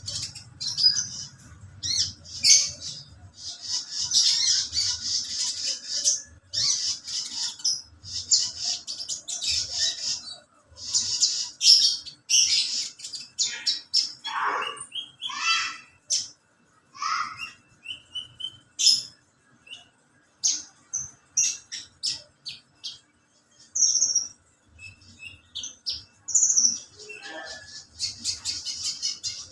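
Kolibri ninja (sunbird) singing: rapid high-pitched chirps and trills in bursts with short pauses, with a few lower sliding notes about midway. It is played as a lure song to set caged birds singing.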